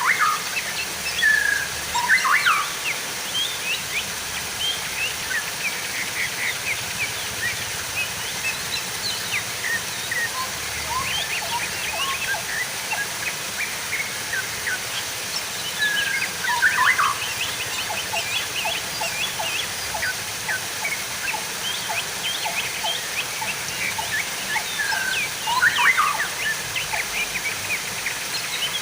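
Water trickling and gurgling, a dense run of small bubbling plinks over a steady hiss, with a few louder splashy bursts.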